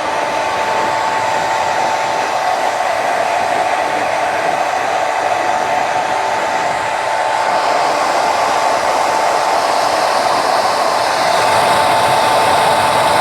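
Handheld hair dryer running steadily, a rushing blow with a steady high whine, getting a little louder near the end.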